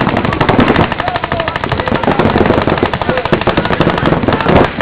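Several paintball markers firing rapid strings of shots, overlapping into a near-continuous rattle, with players shouting over them.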